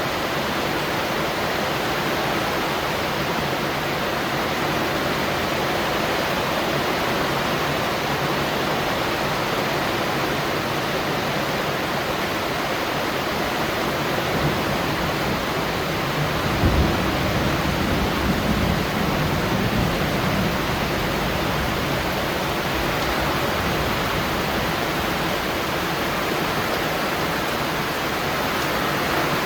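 Steady rain falling. A low rumble joins it for about four seconds past the middle.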